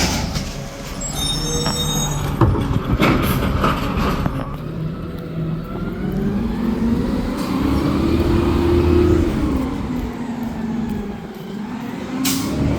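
Garbage truck at work: several clanks and knocks, then its engine revs up and eases off, and revs up again near the end.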